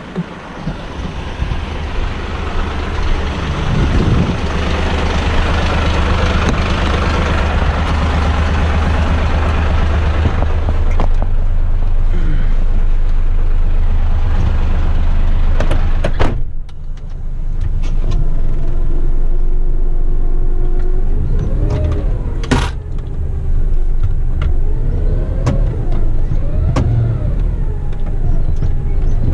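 Heavy waste truck's diesel engine running at raised revs under a loud rushing noise, which cuts off suddenly about 16 seconds in. The engine then revs up and down several times as the truck moves off, with one short sharp burst of sound in between.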